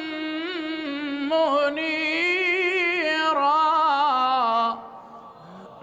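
Quranic recitation in the melodic, drawn-out style: a single voice stretches the words 'wa qamaran munira' into a long, ornamented melisma with a wavering pitch. It breaks off about three-quarters of the way through, leaving it much quieter.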